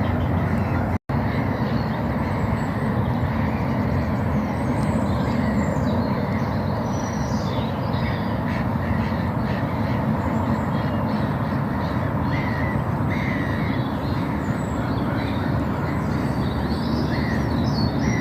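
Crows cawing now and then over a steady low rumble, with other small birds chirping.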